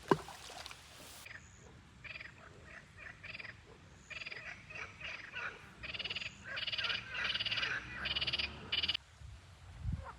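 Frogs croaking by a pond in a series of rapid pulsed calls that grow longer and closer together, then stop near the end. A single sharp click comes right at the start.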